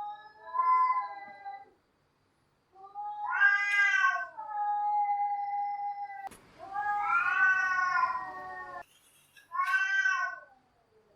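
Cats yowling: four long, wavering, drawn-out calls that rise and fall in pitch, the second ending on a held steady note. A hiss of background noise sits behind the third call and cuts in and out abruptly.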